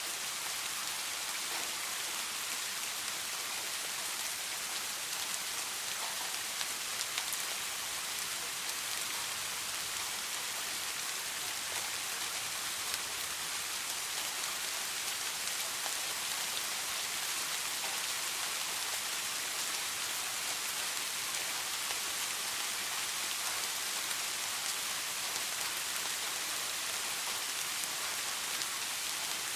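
Soft rain falling steadily, an even hiss with a faint patter of drops that does not change.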